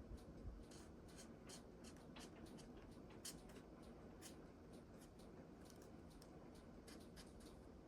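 Faint scratching strokes of a bullet-tip colouring marker on cardstock, many short strokes in an irregular rhythm.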